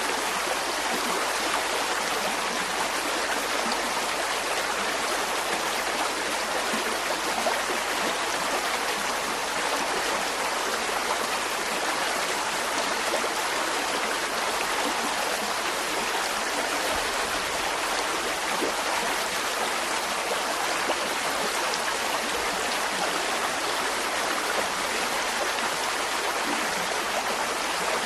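Mountain stream flowing: a steady, unbroken rushing of water.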